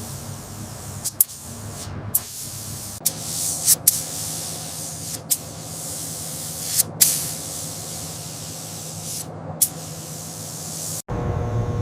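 Spray hissing steadily, broken by several sharp clicks and brief pauses. About eleven seconds in it cuts off abruptly and a low steady hum takes over.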